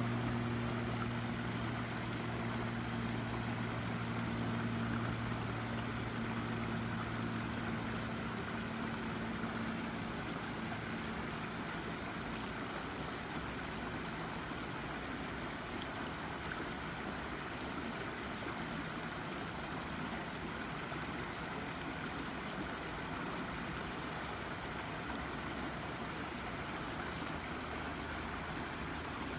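Shallow brook babbling steadily over rocks. A low steady hum sits under the water for the first ten seconds or so, then fades out.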